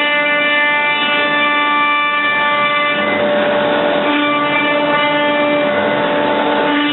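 CNC router spindle running with a steady whine of several stacked tones, joined by rougher cutting noise through the second half as the bit works the material.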